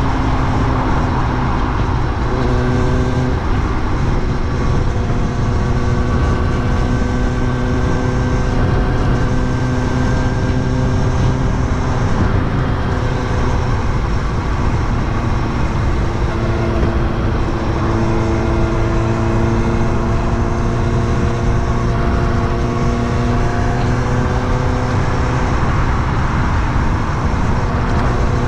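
Kawasaki Ninja ZX-6R's inline-four engine running under way, its note rising slowly twice in long, gentle pulls. Beneath it is a constant rush of wind and road noise.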